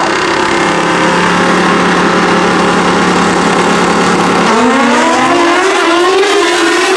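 Pro drag bike engines held at a steady pitch, then from about four and a half seconds in rising steadily in pitch as the bikes accelerate hard.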